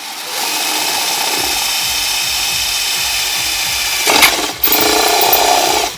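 Handheld electric power tool running steadily under load with a motor whine. It breaks off briefly about four seconds in, runs again, and cuts off just before the end.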